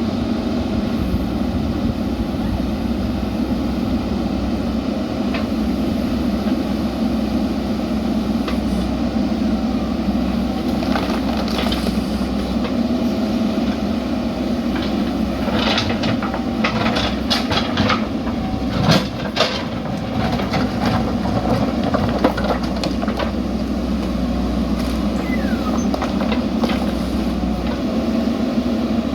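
A JCB backhoe loader's diesel engine running steadily under work, with a run of sharp metallic clanks and knocks in the middle, loudest just before the twenty-second mark.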